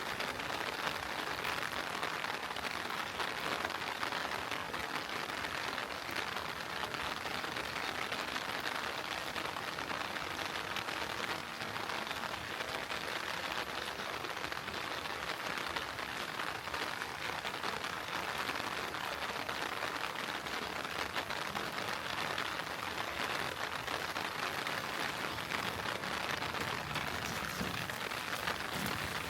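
Heavy rain falling steadily and evenly on surfaces, a constant dense patter with no single drops or other events standing out.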